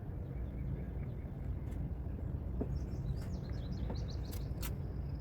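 Small birds chirping in a quick run over a steady low rumble, with a couple of sharp clicks near the end.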